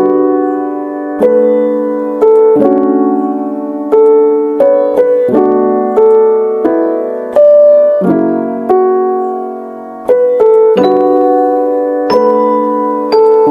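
Background piano music: slow chords struck about once a second or two, each fading before the next.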